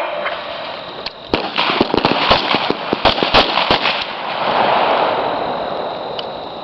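Rifles on a firing range shooting a quick, irregular string of shots: many sharp cracks overlapping for about three seconds, starting about a second in. A steady rushing noise follows.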